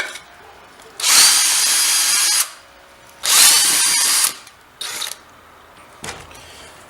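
Electric drill boring holes, run in two bursts of a second or so each, followed by a brief short blip of the trigger.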